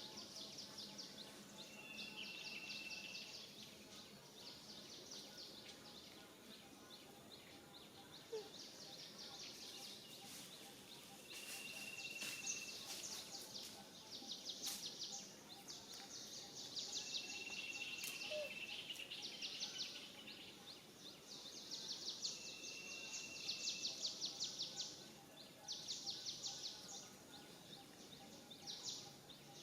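Outdoor wildlife ambience: high pulsing insect-like trills come and go in bursts of a second or two, and four short steady whistled bird notes sound through it.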